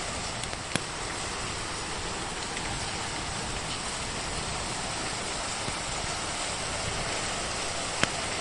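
Steady hiss of rain mixed with a fireplace fire. Two sharp pops stand out, one about a second in and a louder one near the end.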